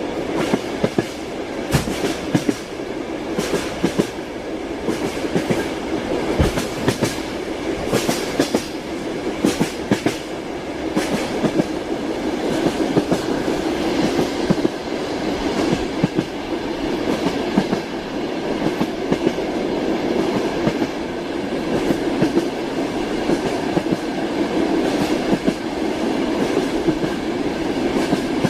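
Railway carriage wheels clattering over the rails, heard from on board the moving train: a steady running rumble broken by sharp irregular knocks, which come thickest in the first ten seconds or so.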